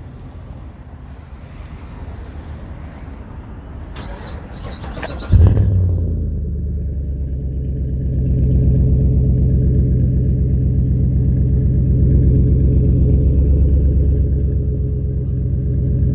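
Car engine firing up about five seconds in and then idling steadily, its exhaust giving a low, even rumble.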